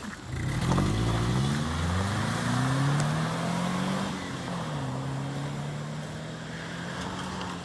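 Subaru flat-four boxer engine with the catalytic converter deleted, the muffler still on, revving up about half a second in and then settling back to a steady idle about four and a half seconds in.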